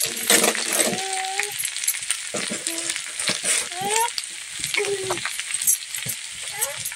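Cubes of aru kanda and onion sizzling in hot oil in a steel karahi, a steel spatula scraping and stirring them against the pan as salt is mixed in. A few short high pitched tones come and go over the sizzle.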